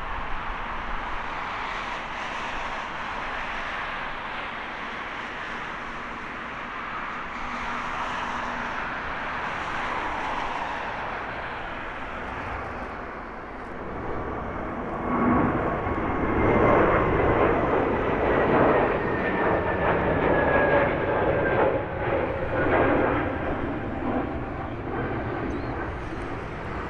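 Airbus A321neo twin turbofan engines at takeoff thrust, a steady jet noise that grows louder about halfway through, with a crackling rumble. Two whines slowly fall in pitch as the airliner passes.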